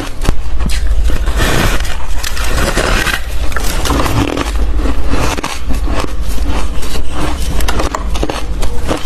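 Close-miked bites into fluffy, squeaky ice, crunching and crackling in a dense run of sharp snaps as it is bitten and chewed.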